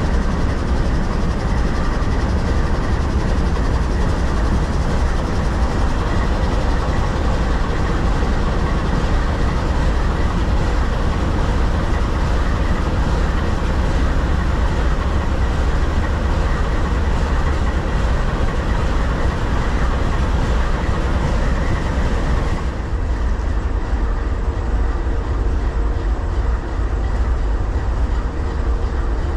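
Train rolling past on the tracks: a steady, loud rumble. About 23 seconds in, the higher part of the noise drops away.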